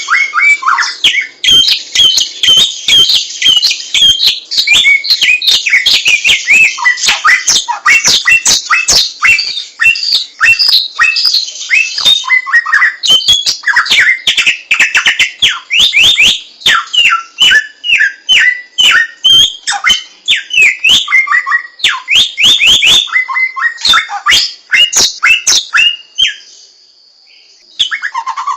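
Samyong songbird singing a long, rapid, varied song of quick whistled glides mixed with sharp clicking notes, breaking off briefly near the end.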